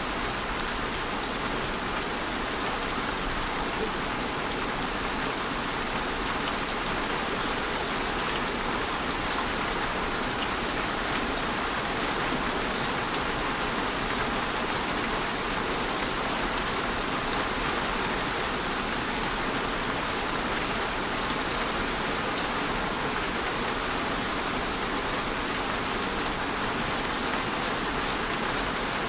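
Steady rainfall, an even hiss of many drops pattering on a surface.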